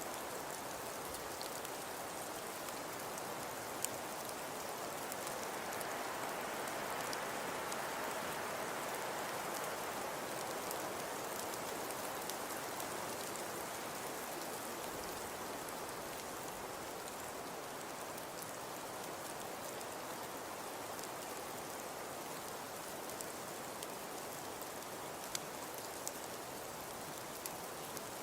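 Steady soft hiss of falling precipitation pattering on surfaces, with a few faint scattered ticks; it swells a little about a quarter of the way in, then settles back.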